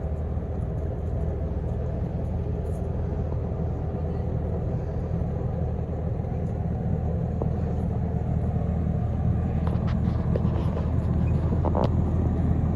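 A vehicle engine running steadily with a low drone that grows slightly louder toward the end.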